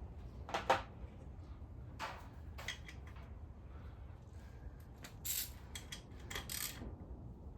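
Hand tools at work on an engine being torn down: scattered clicks and short scraping sounds, the loudest just under a second in, over a steady low hum.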